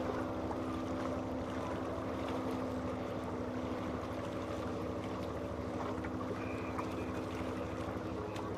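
Boat engine running with a steady droning hum, over a wash of wind and water noise.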